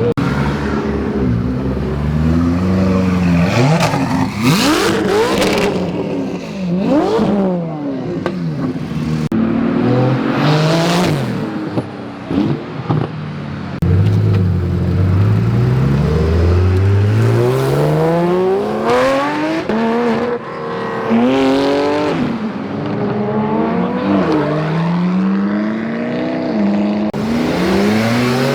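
High-performance car engines revving and accelerating hard one after another, each pitch climbing and dropping back at the upshifts, with cars passing by.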